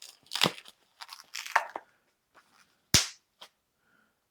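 Latex twisting balloons being handled and twisted, giving short rubbing and crinkling sounds, with one sharp snap about three seconds in.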